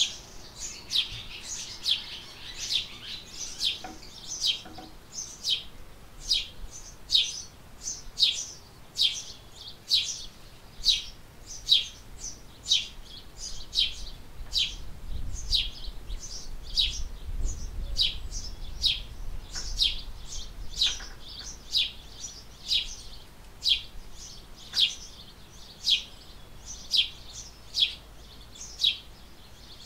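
A small bird repeating a short, sharp chirp over and over, about two chirps a second, each chirp sweeping downward in pitch.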